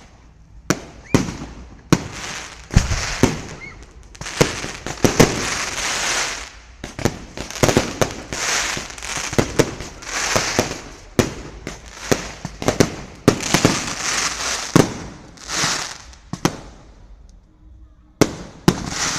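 Fireworks display: a rapid series of sharp bangs from bursting shells, most trailed by hissing crackle. There is a short lull near the end before more bangs.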